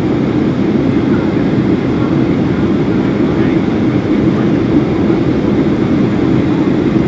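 Steady cabin noise inside a Boeing 737-800 in flight, the even rushing of its CFM56-7B engines and the airstream over the fuselage heard from a window seat behind the wing.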